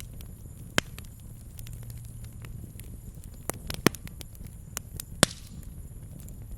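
Campfire crackling: scattered sharp pops and snaps over a low steady rumble, the loudest about a second in and twice more past the middle.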